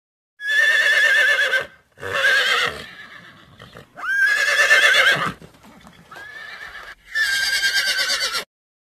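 Horse neighing: a series of whinnies with a quavering pitch, one after another with short gaps. A quieter one comes between the last two.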